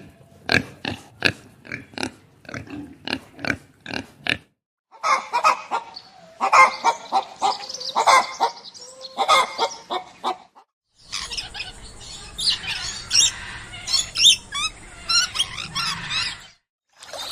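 Farm animals calling: a quick run of short calls about two or three a second, then louder, rougher calls, then high chirping over a steady rushing noise that cuts off suddenly near the end.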